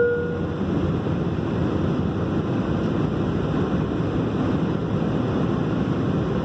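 Steady rushing noise inside an airliner cabin before take-off, from the engines and air system, with a short chime sounding once right at the start.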